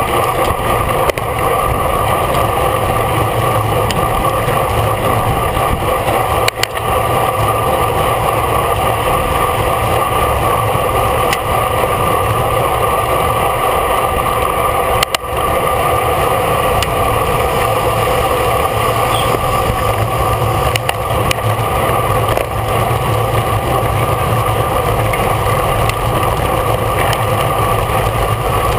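Steady wind and road noise on the microphone of a camera riding on a racing bicycle at speed.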